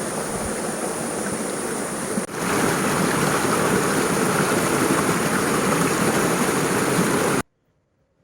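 Strong wind blowing: a steady rushing noise. It jumps louder at a cut about two seconds in and stops abruptly near the end.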